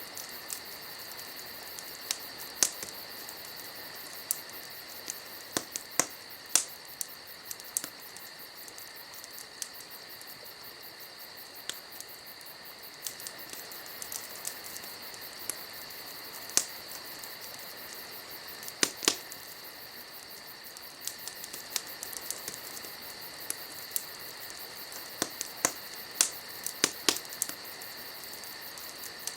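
Wood fire crackling, with sharp pops at irregular intervals, over a steady high chirring of crickets.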